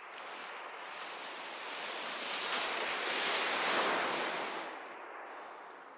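A sea wave breaking and washing up the beach, its hiss swelling to a peak about three to four seconds in and then fading away.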